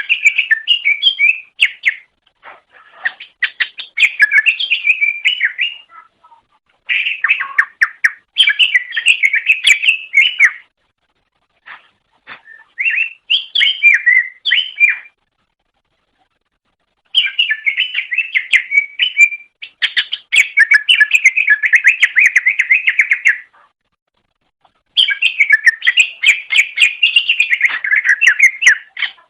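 Cucak ijo (green leafbird) singing: rapid strings of chirps and warbling notes in bouts of a few seconds, broken by sudden silent pauses.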